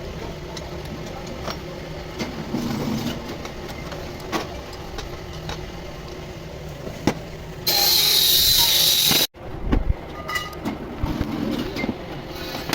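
Workshop noise: scattered metallic clicks and knocks over a steady background, with a loud hiss lasting about a second and a half past the middle that stops abruptly, followed by a few low thumps.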